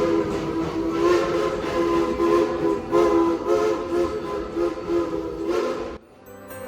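Steam locomotive whistle blowing a long, loud chord of several tones that swells slightly and then cuts off suddenly near the end.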